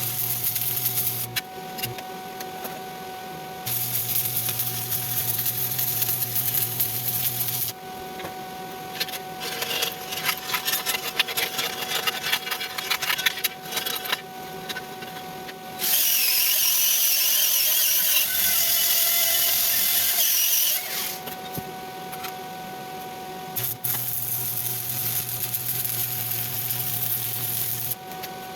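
Stick welding arc crackling and sizzling in several separate stretches, some with a low hum underneath. In the middle comes a steadier, even hiss lasting about five seconds.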